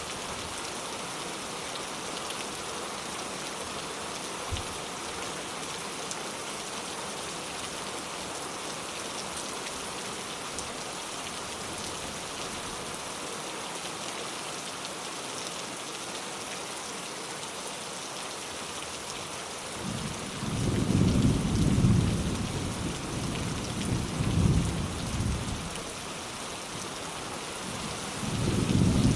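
Steady rain falling. About two-thirds of the way through, thunder rumbles in low rolls for several seconds, louder than the rain, and another roll of thunder begins near the end.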